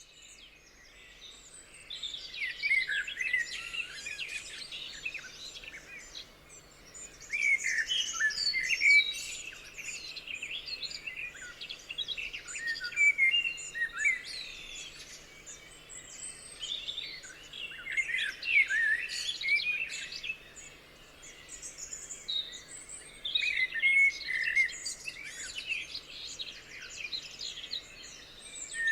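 Birdsong chorus: several birds chirping and singing over one another, the song swelling into busier bursts every few seconds.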